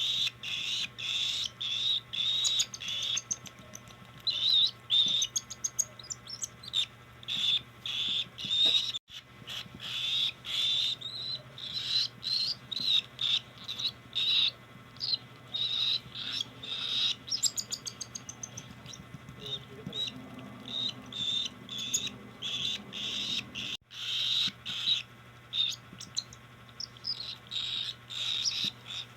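Cockatiel chicks giving rapid, repeated food-begging calls while being hand-fed, several short high-pitched cries a second.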